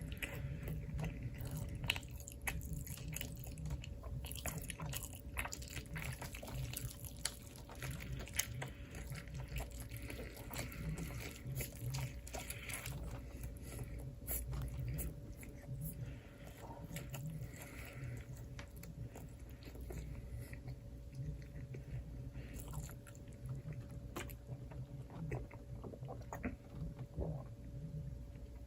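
Close-miked eating: steady chewing with many small crunches and clicks, and a faint steady hum underneath.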